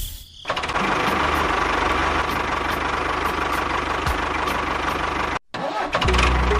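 An engine running steadily at idle, with a brief dropout about five and a half seconds in.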